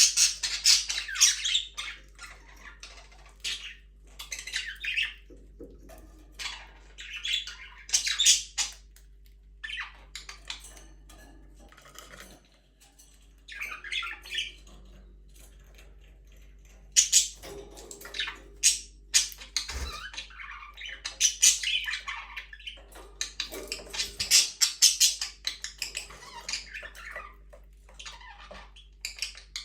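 Budgerigars chattering, with rapid chirps and squawks in bursts, quieter for a few seconds in the middle.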